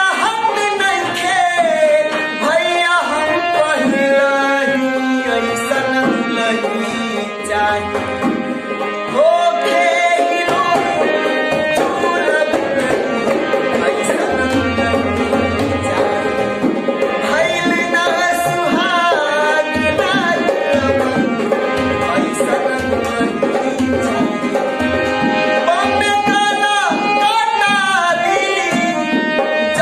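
Indian live music with tabla playing a steady beat under a gliding melodic line.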